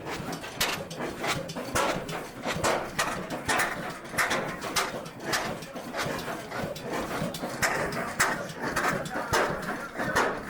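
Old stationary engine running slowly, its exhaust chuffing in an even beat of about three strokes every two seconds.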